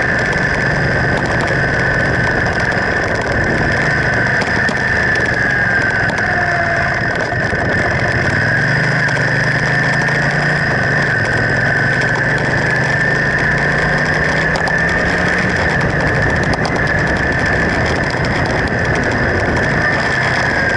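1979 Honda CX500's V-twin engine running as the motorcycle is ridden, its pitch shifting a little up and down, over a steady high-pitched whine.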